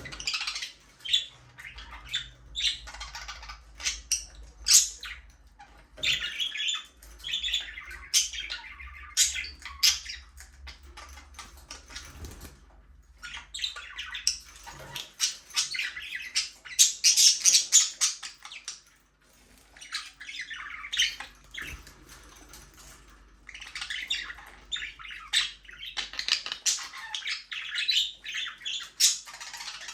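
A flock of budgerigars chattering, with quick high chirps and sharp squawks overlapping almost without pause. There is a brief lull about two-thirds of the way through.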